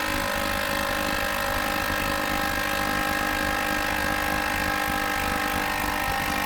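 A Milwaukee 3/8-inch cordless impact wrench with a 12mm socket hammering steadily at a rusted shock-mount bolt. This is the long run of rapid impacts needed to break loose a bolt seized with rust.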